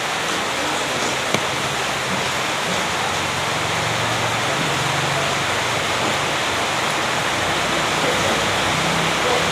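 A steady, loud rushing noise, like running water or wind, with a single short click about a second and a half in.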